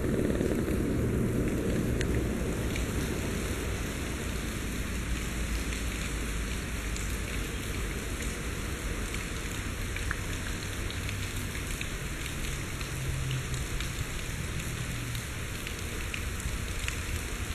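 Heavy rain falling steadily, with the rumble of a departing passenger train fading away over the first few seconds.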